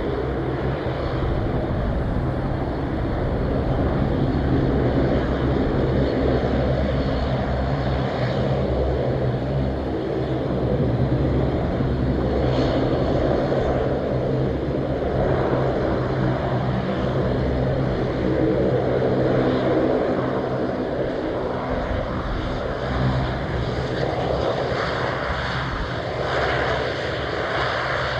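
Airplane engines running steadily: a low steady hum under a broad rushing noise that swells and eases.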